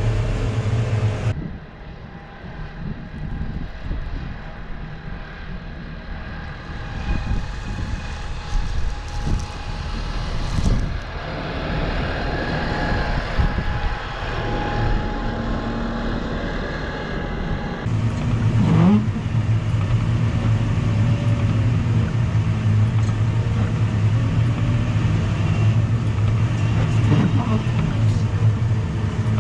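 New Holland T5 tractor's diesel engine running. It drops quieter about a second in and comes back louder and steadier about two-thirds of the way through.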